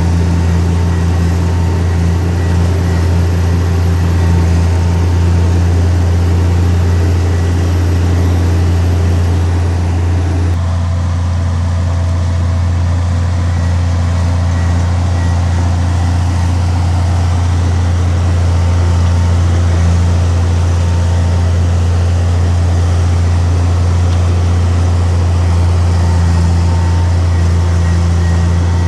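Heavy diesel engine of earthmoving equipment running steadily with a deep, constant drone, its sound shifting slightly about ten seconds in.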